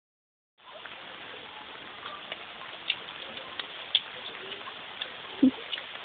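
Rain falling: a steady hiss with scattered sharp ticks of drops landing close by, starting about half a second in. One dull thump sounds about five and a half seconds in.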